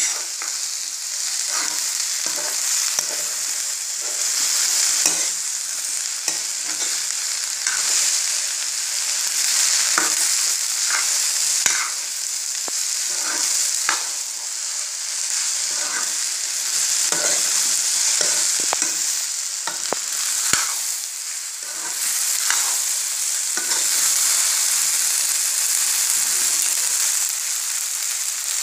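Cut okra sizzling in hot oil in a kadai, with a steady high hiss. A utensil stirring the okra scrapes and clicks against the pan at irregular moments throughout.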